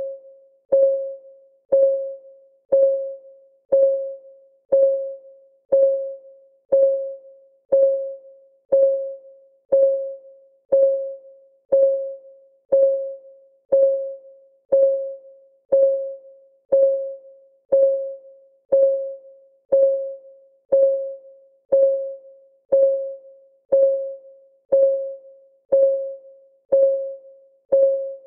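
Countdown timer's clock ticking sound effect: a short, mid-pitched tick about once a second, each dying away quickly, in a steady even rhythm.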